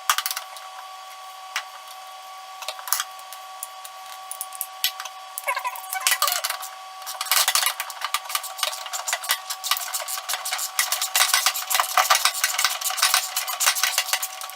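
Hand tools clinking and clicking against metal parts during suspension work on a car: scattered clinks at first, then a dense run of rapid clicks and rattles from about halfway in.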